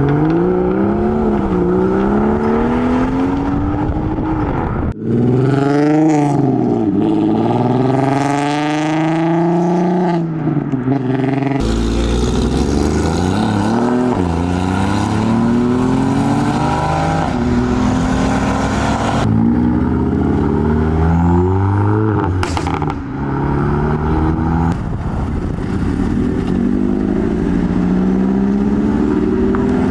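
Modified car engines revving and accelerating away one after another, each climbing in pitch and dropping back as it shifts up. The sound changes abruptly several times as a different car takes over.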